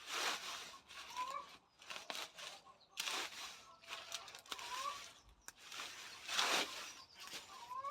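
Leafy comfrey stems rustling and tearing as they are pulled and cut back, in bursts every second or so. A bird gives a short rising call several times.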